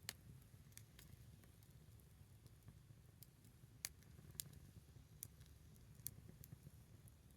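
A small wood fire crackling faintly, with sparse, irregular sharp pops and snaps of burning wood over a low rumble.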